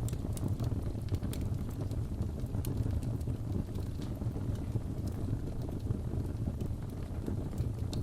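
Wood fire crackling in a fireplace: a low steady rumble of the flames with scattered sharp pops and ticks, a few each second.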